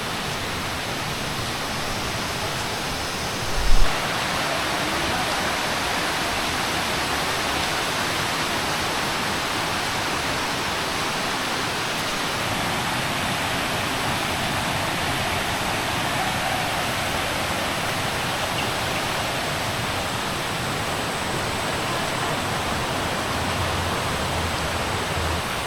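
River water rushing over rocks, a steady noise. A brief low thump comes about four seconds in, after which the rushing is a little louder.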